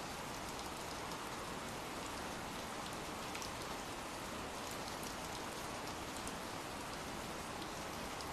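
Steady rainfall: an even hiss of rain with scattered sharp ticks of single drops.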